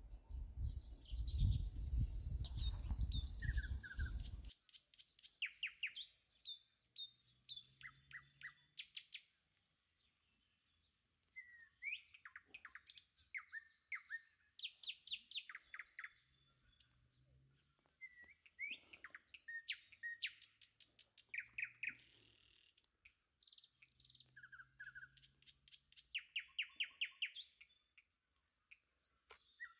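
Songbirds singing, with many fast repeated trills and short chirps from several birds, pausing now and then. A low rumbling noise lies under the first four seconds and cuts off abruptly.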